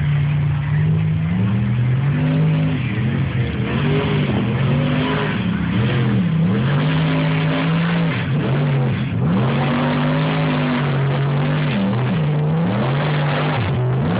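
Racing truck's engine revving hard under load. Its pitch holds high, then dips sharply and climbs back again several times.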